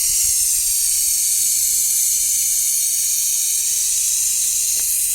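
Brazing torch flame hissing steadily as copper refrigerant pipe is brazed.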